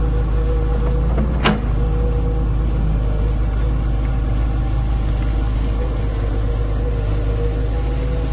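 Excavator engine running steadily, with one sharp clank about a second and a half in.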